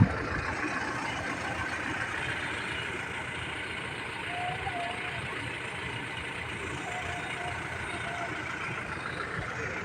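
Steady outdoor background noise, with a short click at the start and faint distant voices now and then.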